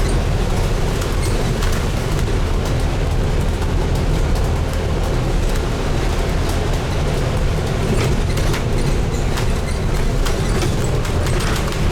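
Scania N250UD double-decker bus on the move, heard from inside at the front: a steady engine and road rumble with scattered light rattles and ticks from the bodywork.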